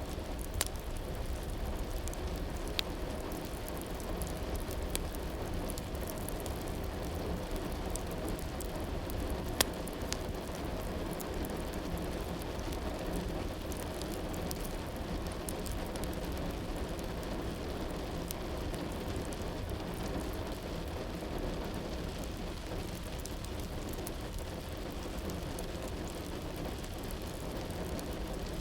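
Steady rain falling, with scattered sharp drops tapping and one louder tap about ten seconds in.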